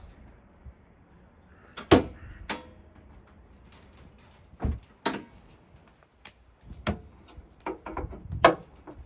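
A series of sharp knocks and clicks, about a dozen spread irregularly over several seconds, the loudest about two seconds in and again near the end.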